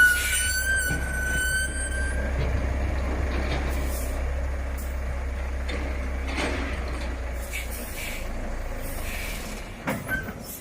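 Heavy truck engine running with a steady low rumble, a high whine over it for the first couple of seconds, and a few clicks. The rumble fades away near the end.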